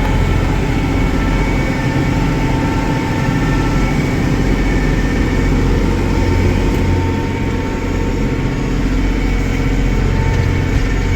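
Tractor engine running steadily while mowing grass, with a steady whine over the low engine drone.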